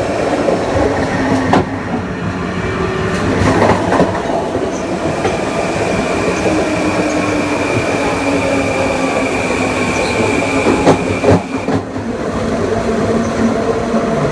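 Kawasaki M9 EMU's Mitsubishi (MELCO) IGBT-VVVF inverter and AC traction motors whining as the train runs, with several steady tones and a high one held through the middle. Wheel-on-rail noise underneath, broken by a few sharp clicks, and the sound dips briefly about two seconds in and again near the end.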